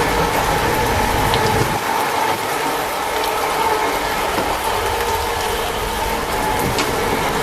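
Steady hum and light rattling inside a train carriage, with a few held tones over an even noise and occasional faint ticks.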